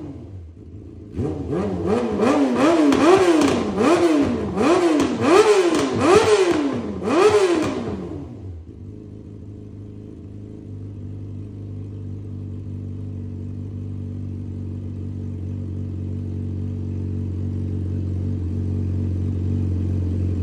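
Yamaha R6 inline-four through an SC-Project aftermarket exhaust: a quick series of sharp throttle blips, each revving up and dropping straight back. About eight seconds in, the engine settles into a steady idle.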